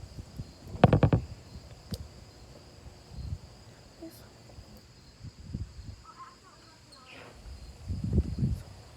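Steady high-pitched insect drone in the background. About a second in comes a loud cluster of knocks or handling clatter, and a few softer thumps follow.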